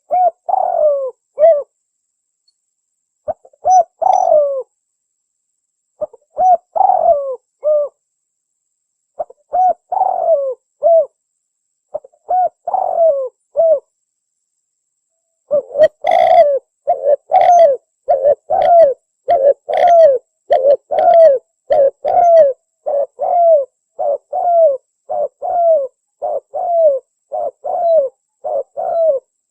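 Spotted dove (tekukur) cooing in short phrases of three or four notes every few seconds, then, about halfway, breaking into a fast unbroken run of coos at about two a second; a lure call for wild doves.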